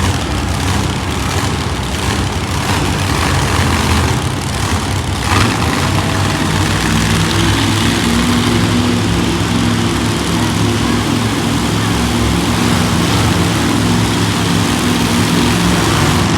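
Monster truck engine running loudly, its steady drone growing stronger about six seconds in and then held, over a constant wash of noise.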